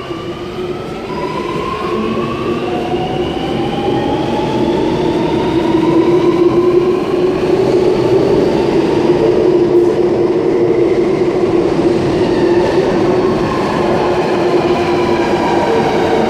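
Electric passenger train running through the station, its traction motors whining in several tones that climb in pitch as it speeds up, over a steady rumble of wheels on rail. The sound grows louder over the first several seconds, then holds steady.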